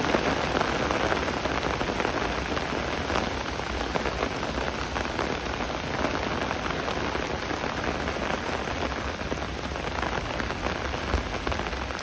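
Steady rain falling: an even hiss of many drops with a dense scatter of small individual hits.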